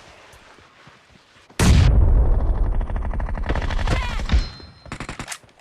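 Video game automatic gunfire: a quiet stretch, then a long burst of rapid shots starting about a second and a half in and lasting nearly three seconds, followed by a shorter burst near the end.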